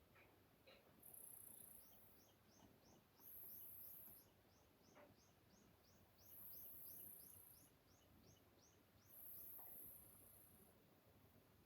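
Faint outdoor ambience: a very high insect buzz comes in roughly one-second bursts every two to three seconds, and a run of quick high chirps, about four a second, goes on through the middle.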